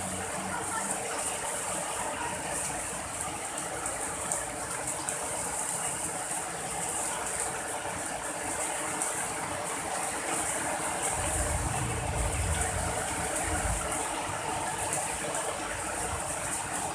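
Steady rain falling. A low rumble comes in about eleven seconds in and lasts a few seconds.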